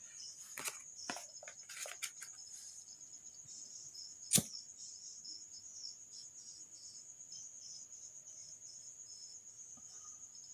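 Steady high chirring of crickets in the background. A few light clicks of handling come in the first two seconds, and one sharp click about four seconds in.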